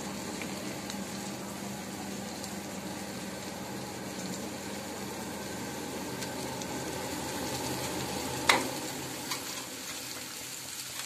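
Cauliflower and spices frying in a pan, a steady sizzle over a low steady hum, with one sharp clink about eight seconds in.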